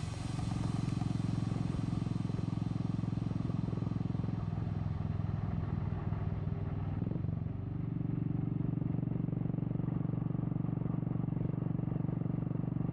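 Royal Enfield Classic 350's single-cylinder engine running through a Red Rooster aftermarket exhaust while riding at a steady pace. The engine note dips briefly about halfway through, then settles steady again.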